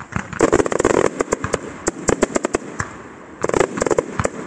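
Fireworks going off in rapid volleys of sharp bangs: a dense burst about half a second in and another about three and a half seconds in, with scattered single reports between.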